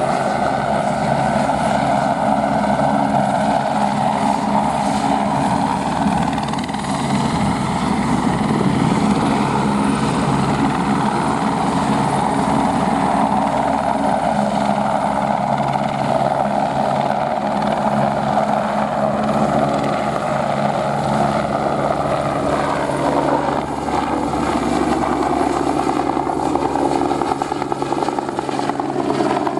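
Airbus AS350 helicopter running steadily overhead: the single turboshaft engine and rotor make a continuous loud drone with a steady whine.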